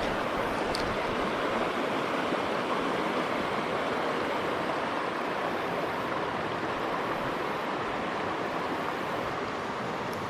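Steady rush of a river running over rocky shoals and rapids.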